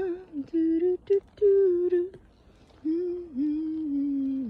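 A woman humming a tune in held notes, with a short pause a little past halfway.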